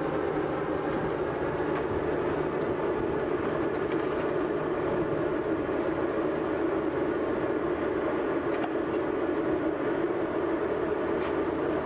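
Steady rumble of a vehicle in motion, even and unbroken throughout.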